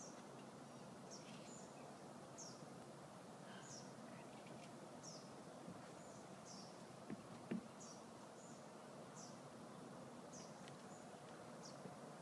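Near silence: a small bird's faint, high chirps repeating about once a second, with two faint knocks about seven seconds in.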